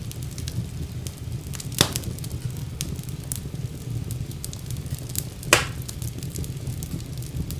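Wood fire crackling in a fireplace: a steady low rumble with many small scattered crackles, and two louder pops, one about two seconds in and one about five and a half seconds in.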